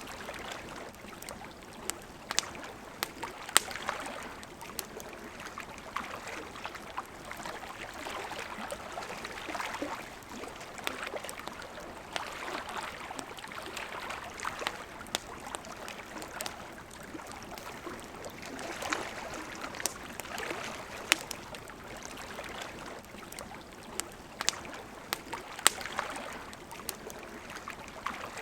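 Wood campfire crackling, with sharp irregular pops, over the steady rush of a flowing river.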